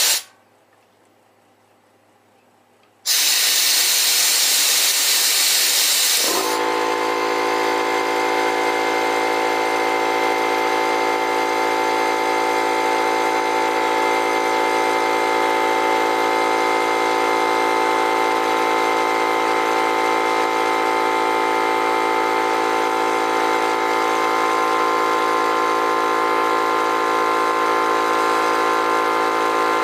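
Harbor Freight air compressor: a loud hiss of escaping air for about three seconds, then the compressor's motor and pump start about six seconds in and run steadily, building tank pressure toward the switch's cut-out point.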